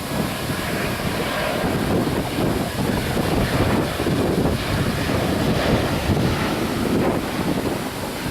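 Wind blowing across the microphone: a steady, loud rushing rumble with no clear tone.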